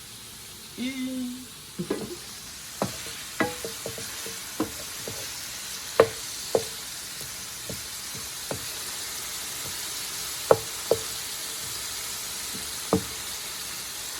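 Shrimp frying in a pan with a steady sizzle, broken by a dozen or so sharp, irregular clicks and taps of a utensil against the pan as the shrimp are turned.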